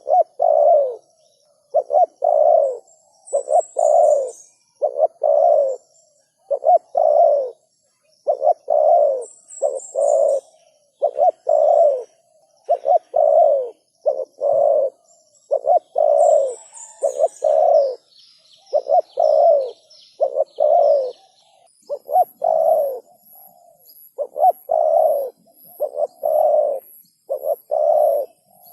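Spotted dove cooing over and over, its low coos coming in tight groups with short gaps between. A small bird chirps faintly now and then, and near the end a faint, very high, evenly spaced pipping joins in.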